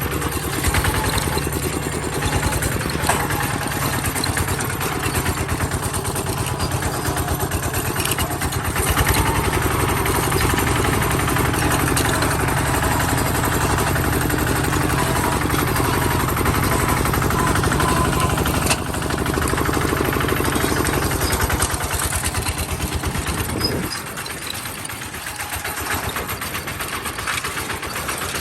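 Bulldozer's diesel engine running steadily. Near the end its low hum drops away sharply and the sound becomes quieter.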